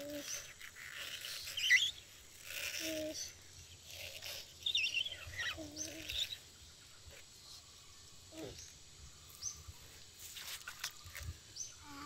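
Small birds chirping: short high calls and quick upward chirps that repeat several times, among a few brief low vocal sounds.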